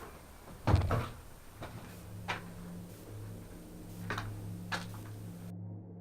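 Knocks and bumps of a person climbing in through a window frame: a heavy thump about a second in, then a few sharper knocks spread out over the next few seconds.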